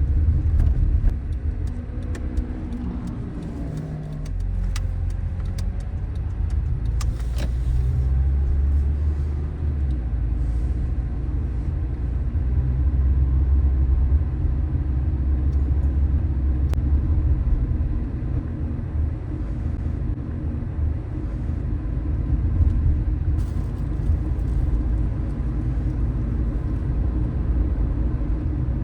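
A car being driven: a steady low rumble of engine and tyres on the road, with the engine's pitch shifting during the first few seconds. A few light clicks are heard along the way.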